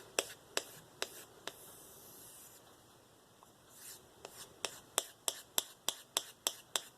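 Spyderco Endura 4's K390 blade being stropped on a balsa strop loaded with diamond paste: quick back-and-forth strokes, each giving a sharp tick, about three a second. There is a short pause with a soft rubbing sound in the middle before the strokes pick up again.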